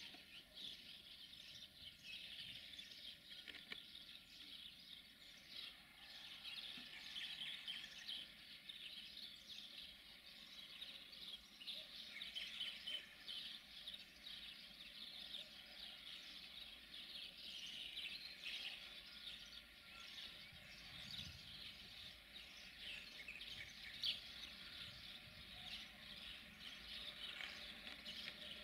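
Faint birds chirping, many short chirps coming steadily, over quiet outdoor background noise.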